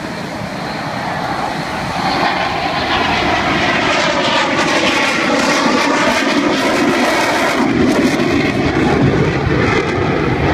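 F-22 Raptor's twin afterburning turbofan jet engines during a flyby. The jet noise builds over about two seconds and then stays loud, with a sweeping, phasing sound in the middle as the jet passes.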